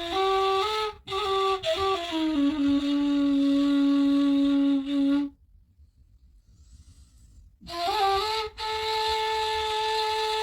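Music: a solo flute-like woodwind plays a slow melody of long held notes. It breaks off for about two seconds midway, then comes back sliding up into a long held note.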